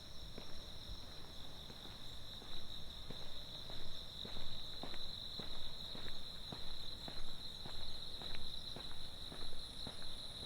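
Footsteps walking at an even pace, nearly two steps a second, over a continuous high-pitched chorus of night insects singing.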